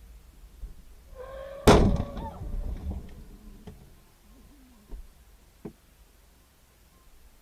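A vehicle collision. A short pitched tone sounds, then comes a single loud crash of impact just under two seconds in, with about a second of clattering after it. A couple of faint knocks follow later.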